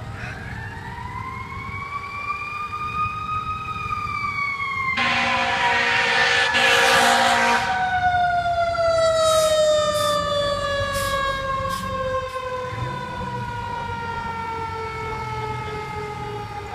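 A fire truck's siren gives one long wail, winding up over about three seconds and then sliding slowly down in pitch for the rest of the time. About five seconds in a loud blast lasts about three seconds and is the loudest part. A few short sharp sounds follow.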